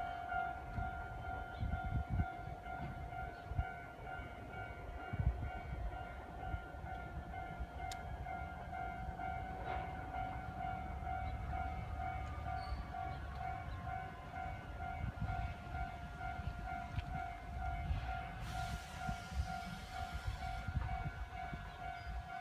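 Japanese railway level-crossing alarm ringing in a steady, evenly repeated electronic ding, over a continuous low rumble.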